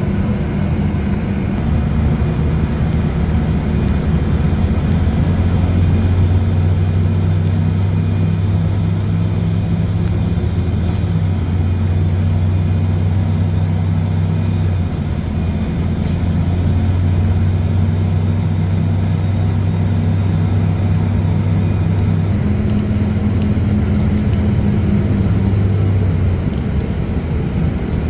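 Train running: a steady low drone that steps up and down in pitch every few seconds, over a constant rushing noise.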